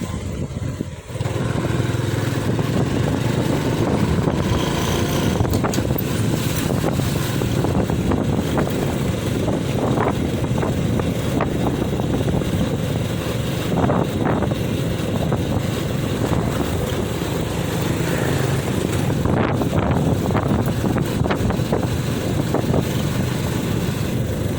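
Steady road traffic noise from passing heavy trucks, with engines running and tyres on the road.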